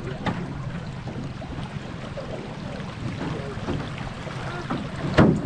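A small boat's outboard motor running steadily, with water and wind noise. A loud sharp thump comes about five seconds in.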